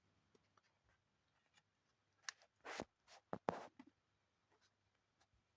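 Near silence broken by a few faint, short scrapes and clicks about halfway through, like small handling noises.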